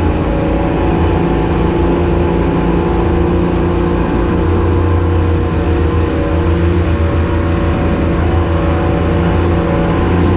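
A boat's engines running steadily under way, a constant engine hum over water and hull noise. A brief high hiss comes near the end.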